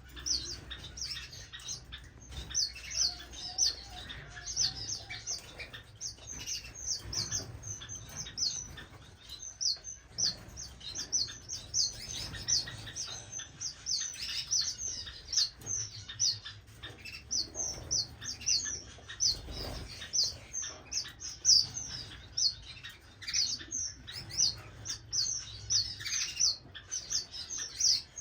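A flock of small finches and waxbills chirping together: a dense, unbroken stream of short, high chirps from many birds at once.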